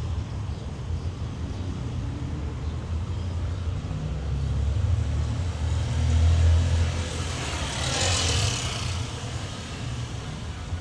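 Street traffic: a motor vehicle's low engine rumble grows and is loudest about six seconds in, followed by a brief hissing swell about two seconds later as it passes.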